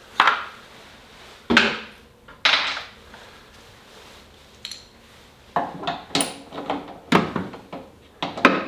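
Hand tools and small metal parts clinking, knocking and scraping in separate irregular strikes as a Toro snow blower's carburetor is taken apart, with a quicker run of clinks in the second half.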